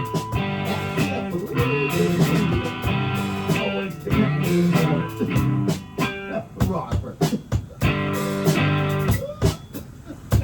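Guitar played live: strummed chords and picked notes, with the playing thinning out and getting quieter near the end.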